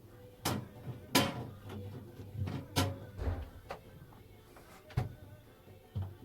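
Knocks and clunks from a small fridge's door and fittings being handled while it is cleaned: about six sharp ones, spread through.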